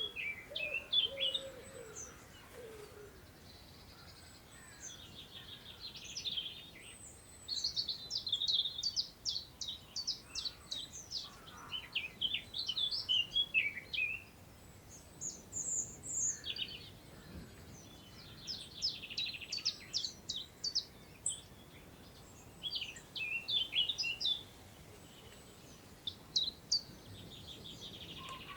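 Several songbirds singing in overlapping phrases of quick high notes and trills, some phrases coming in rapid runs of notes, with a brief lower call near the start. A soft, even hiss of wind through long grass lies underneath.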